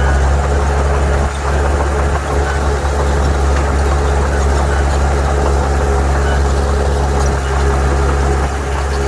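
Heavy diesel engine of a bulldozer or dump truck running steadily: a loud deep drone with a steady higher tone above it.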